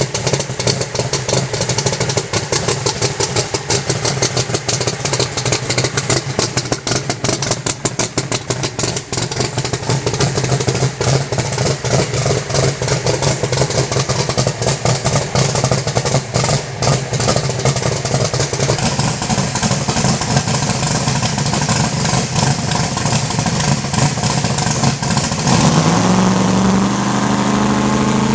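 Twin-turbo 520 Hemi race engine running with a rapid, uneven crackle of sharp pops, then revving up with a rising pitch near the end.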